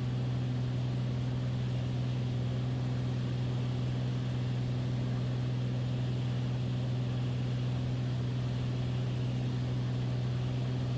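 Steady drone of a Beechcraft Bonanza's piston engine and propeller in cruise descent, an even low hum with a light hiss that does not change.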